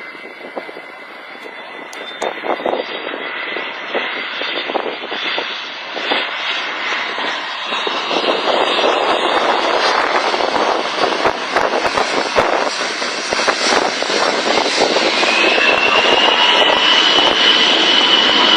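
Engines of firefighting water-bomber aircraft, growing steadily louder as they come close, with a high whine rising in about three-quarters of the way through.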